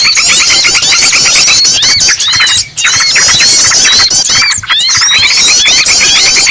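Bird-lure mix: frantic, overlapping chattering of yellow-vented bulbuls (trucukan) layered with the squealing distress calls of a trapped, pinched bird. The dense rapid chirps run on without pause except for two brief breaks.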